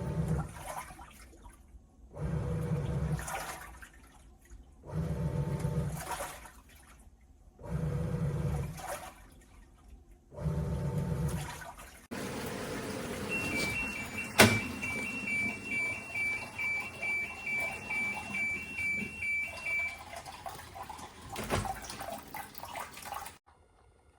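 Iris Ohyama IAW-T606-B washing machine churning water in pulses, a surge about every two and a half seconds. After that the water rushes steadily while the machine gives a rapid electronic two-tone beeping for several seconds; a sharp click follows, and the sound stops just before the end.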